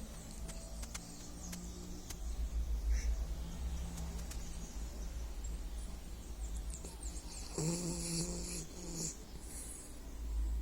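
Dog snoring in its sleep with steady low breathing noise. About eight seconds in, one louder, pitched sound lasts over a second.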